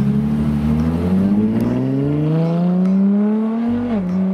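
Ferrari LaFerrari's V12 engine pulling away. It holds a steady note for about a second, then rises in pitch for about three seconds as it accelerates, then drops abruptly near the end and holds steady.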